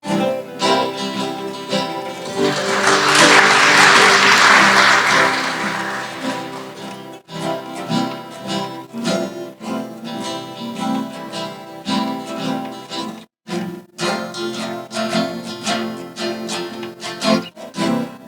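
School guitar ensemble playing a blues on plucked acoustic guitars. A short burst of audience applause rises over the playing about three seconds in and fades within a few seconds. The sound cuts out briefly twice near the middle.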